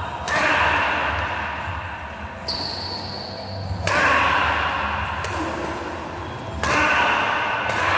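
Echoing thuds in an indoor sports hall, three sudden loud ones each followed by a few seconds of noisy hall sound.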